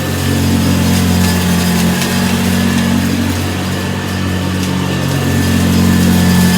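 Vintage Hoover Convertible U4005 upright vacuum cleaner running over carpet, its motor giving a steady low hum that wavers slightly in pitch and level.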